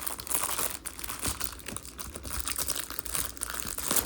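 Plastic wrapper of a baseball card rack pack crinkling and tearing as it is handled and opened, with many small crackles.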